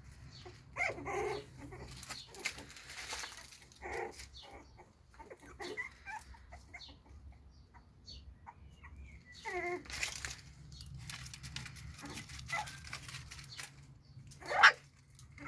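Puppy whining and yapping in short cries a few seconds apart, with a thin gliding whine about halfway through and a loud yelp near the end.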